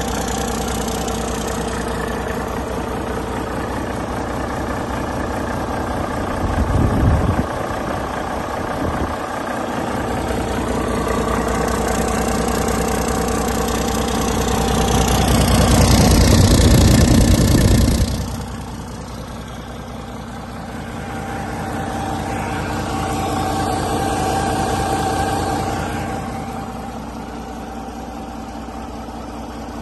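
2012 Volvo D13 inline-six diesel engine running at a steady idle, revved several times: a short burst about seven seconds in, a longer rev climbing to its loudest and dropping back sharply just past halfway, then a gentler rise and fall.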